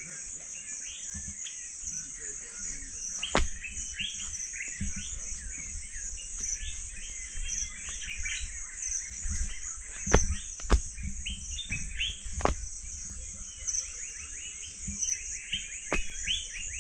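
Birds chirping over a steady high-pitched insect drone, with a few sharp clicks or knocks scattered through it.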